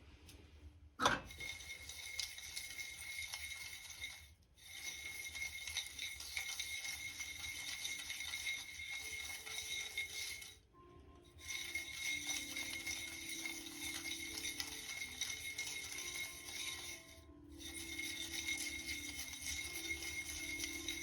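Dried sword bean pieces stirred and scraped in a dry pan while roasting, a steady rasping rattle in three stretches, with a sharp click about a second in.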